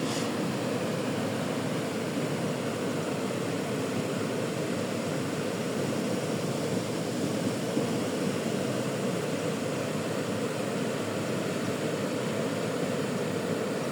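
River water rushing, a steady, even roar of flowing water.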